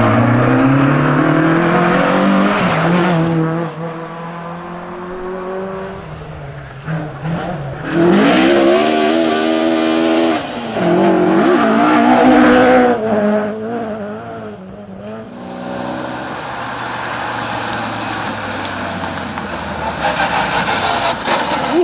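Rally car engines revving hard at speed, the pitch climbing and dropping again and again with gear changes and lifts off the throttle. In the last few seconds the engine tone gives way to a steady rushing noise.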